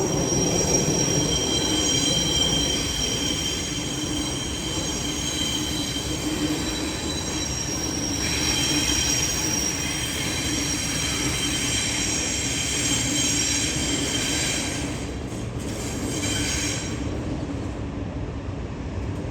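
Train wheels squealing: several high steady squeal tones over a low rail rumble, swelling about halfway through and dying away near the end.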